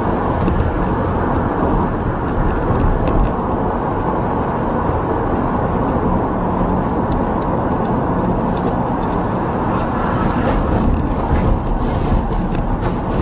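Steady, loud noise of a moving vehicle, with no clear pitch and no distinct impacts.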